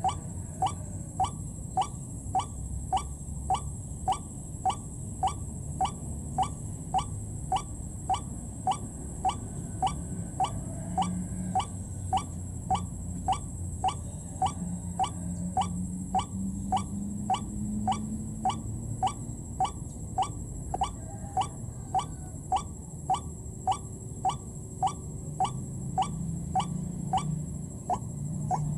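White-breasted waterhen calling: a short rising note repeated very evenly, about three times every two seconds, over a low rumble and a steady high-pitched whine.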